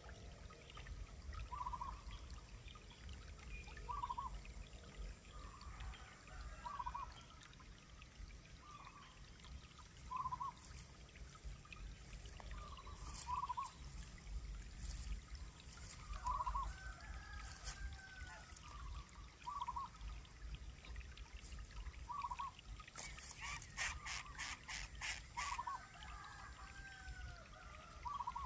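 Short bird calls repeated about every two seconds, with curved chirps between them, over a steady low noise; a quick run of clicks near the end.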